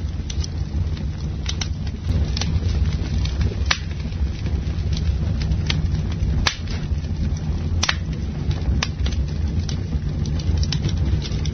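Campfire burning, crackling with irregular sharp pops, a few of them louder, over a steady low rumble.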